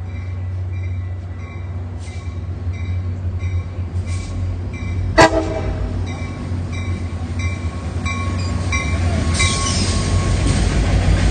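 Diesel train approaching, its low rumble growing steadily louder, with a grade-crossing bell ringing about three strokes a second. About five seconds in there is one sharp, brief ringing sound.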